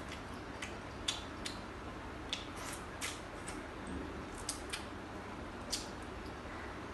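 Eating sounds: about a dozen short, sharp clicks and smacks at irregular intervals over a steady low hum.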